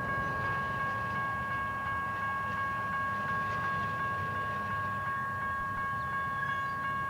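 Freight train cars rolling past with a steady low rumble, and a high-pitched ringing tone held steady over it.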